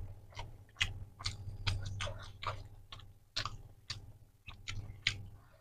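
Close-up chewing of a mouthful of rice and egg curry: uneven wet mouth smacks and clicks, about two or three a second.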